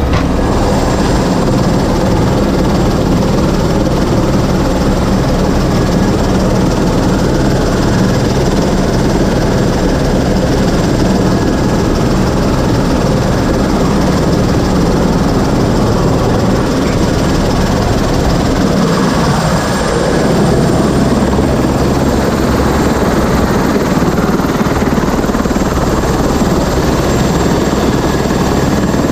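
Helicopter in flight: loud, steady rotor and engine noise.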